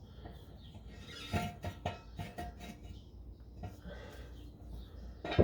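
Hand tools clinking and clicking on metal exhaust hardware: a quick run of sharp clicks about a second in, a few more later, and a loud clink at the very end.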